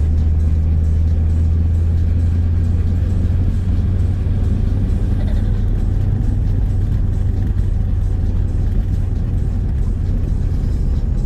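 BMW 320 Tourer car driving steadily, a constant low drone of engine and road noise with no revving.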